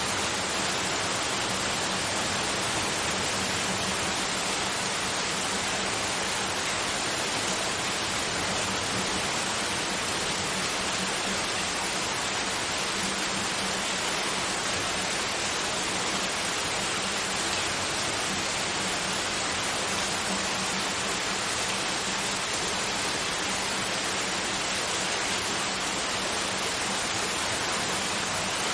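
Steady white noise: a continuous, even hiss with a faint low hum beneath it.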